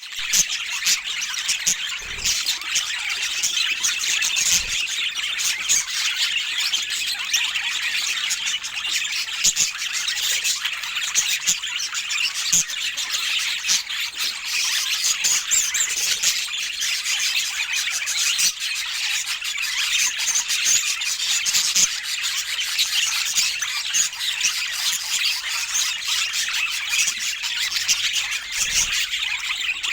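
Budgies chattering, chirping and squawking without a pause: a dense stream of short, high calls.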